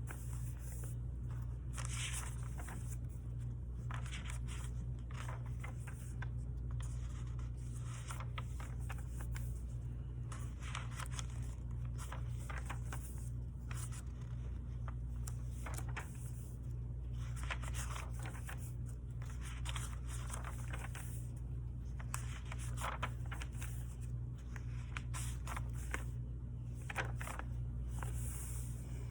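Scratchy strokes of writing on paper and paper being handled, in short irregular bursts, over a steady low hum.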